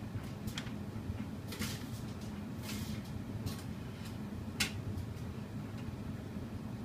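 Laundry and the door of a tumble dryer being handled while it is loaded: a few short rustles and knocks, ending in a sharp click about four and a half seconds in, over a steady low hum.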